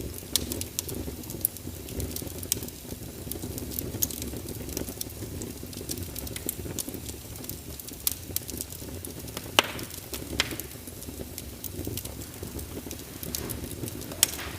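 Fireplace crackling: a steady low rumble of burning wood with irregular sharp pops and snaps, a couple of louder pops about ten seconds in.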